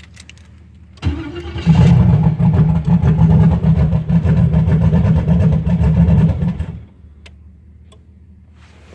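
Cold turbocharged LS V8 cranked on the starter briefly, firing about a second and a half in and running roughly five seconds before it stops abruptly. This is a cold start on a Microsquirt standalone with the cold-start enrichment still being tuned.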